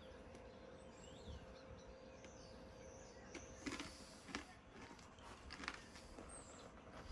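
Very quiet background of a few faint bird chirps over a low steady hum, with a few soft clicks and knocks in the second half.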